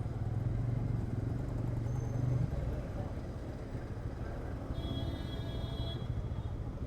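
Motorcycle engine running with a steady low drone that eases off about two and a half seconds in. A brief high-pitched tone sounds for about a second near the end.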